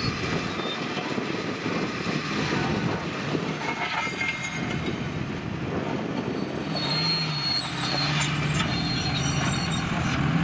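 A stuck off-road vehicle straining out of deep mud: its engine running hard while the tires spin and churn through wet mud and water, with a high thin squeal over it. The engine note strengthens about seven seconds in.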